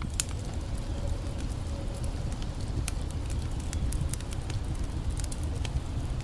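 Campfire crackling with scattered sharp pops, over a steady low rushing of a creek.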